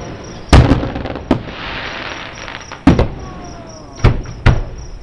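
Aerial fireworks shells bursting: about five sharp bangs spread over the few seconds, with a stretch of crackling just after the second one.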